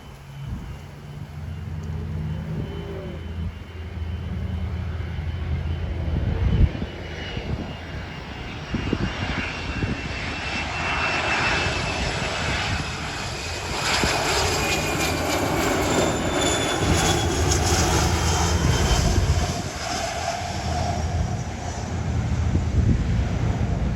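Jet airliner's engines passing: a loud roar with high whining tones that fall slowly in pitch as the aircraft goes by.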